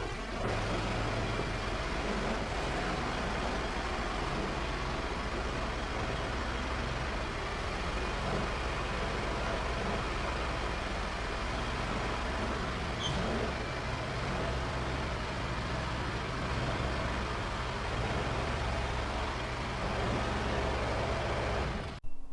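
Kohler 725cc V-twin engine of a stump grinder running steadily while the machine is moved; one cylinder is down on compression. The drone cuts off suddenly near the end.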